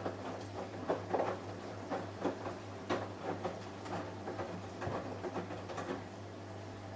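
Samsung Eco Bubble front-loading washing machine running a wash cycle: a steady low motor hum with irregular soft knocks and splashing as the drum tumbles wet laundry. The tumbling stops about six seconds in, leaving the hum.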